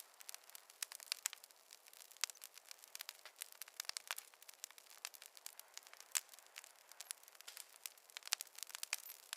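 Wood fire crackling in a fireplace: a dense run of irregular sharp pops and snaps, several a second, over a faint hiss, with no low rumble.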